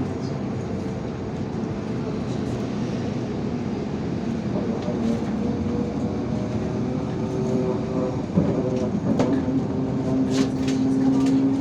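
IVECO city bus running: a steady engine hum with a few short knocks and rattles. The engine note grows louder near the end.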